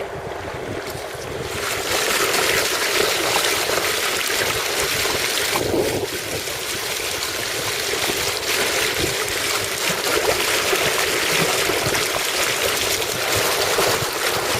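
Water rushing and splashing along a sailing boat's hull, a steady hiss that grows louder a little under two seconds in.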